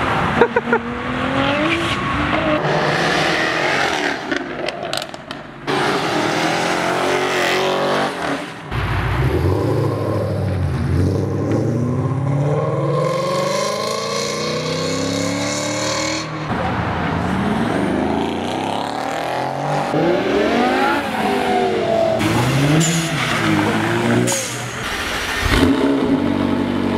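Performance car engines revving and accelerating in a run of short clips, their pitch sweeping up through the gears and falling off between pulls.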